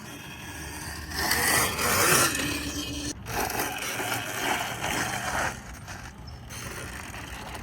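Electric dirt bike being ridden, its tyres scraping over dirt in uneven surges of noise, with a sharp break about three seconds in.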